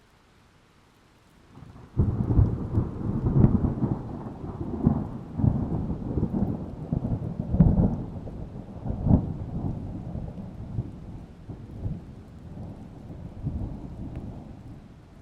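Thunder: a sharp clap about two seconds in, then a long rolling rumble with repeated loud peaks that slowly dies away.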